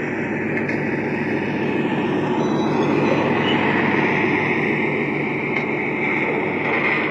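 Lionel Legacy ES44AC model diesel locomotive's sound system playing a steady diesel engine drone that swells louder about two seconds in, with a brighter, higher squeal-like band building toward the end.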